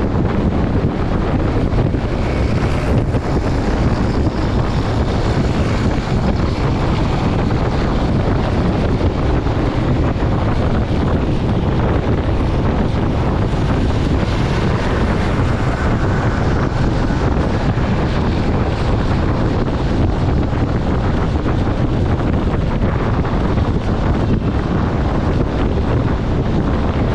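Strong wind buffeting the microphone: a loud, steady rumbling rush that never lets up.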